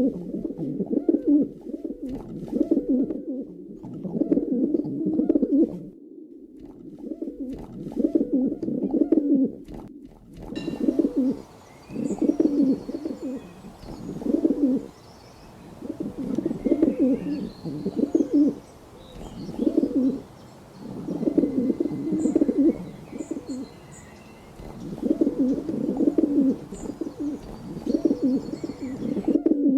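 Pigeons cooing, a low throaty coo repeated every second or two. From about ten seconds in, faint high chirps of small birds and a light background hiss join in.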